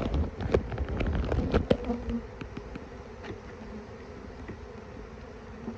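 Honeybees buzzing around an opened hive in a steady, even hum. Sharp knocks and clicks of hive frames and boxes being handled come through the first two seconds, then die away.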